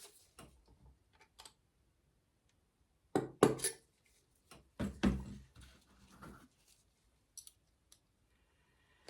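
Clicks and clatter of small metal parts and tools being handled on a workbench, with two louder clattering bursts a few seconds in.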